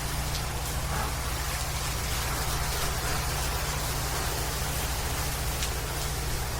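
Pressure-washing rig's engine running at a steady speed, a low even hum under a steady hiss.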